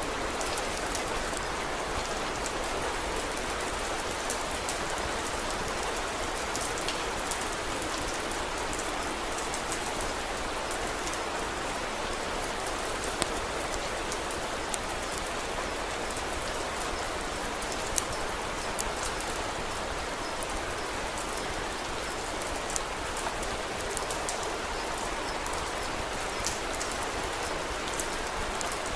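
Steady rain falling, with scattered sharp crackles from a wood fire, a couple of them louder than the rest.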